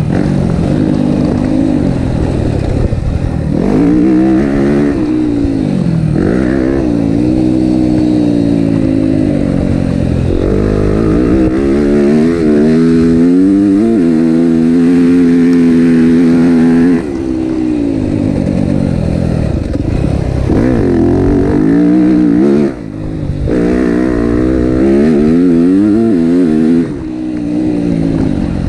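Yamaha motocross bike's engine revving hard around a dirt track, the pitch climbing and falling over and over as the rider works the throttle through corners and straights. It holds high for a few seconds midway, and there are three sudden brief drops in level later on.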